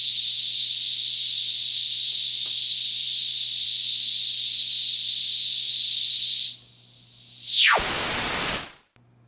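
Noise played through the Patching Panda Vibrazum Mk2 voltage-controlled filter: a steady high hiss. About two-thirds of the way in, the filter sweeps down, so the hiss falls in pitch and opens into full, wide noise. It then cuts off suddenly near the end. A faint low hum sits underneath.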